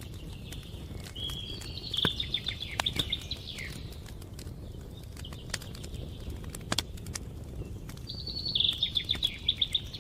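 Wood fire crackling in a fireplace, a steady low rumble broken by scattered sharp pops. Twice a bird sings a short phrase of quick, high trilled notes, about a second and a half in and again near the end.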